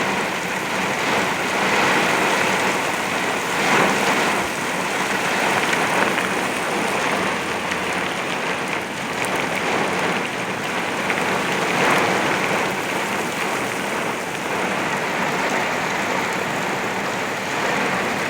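Very heavy rain beating on a vehicle's roof and windshield, heard from inside the cabin, swelling and easing in waves.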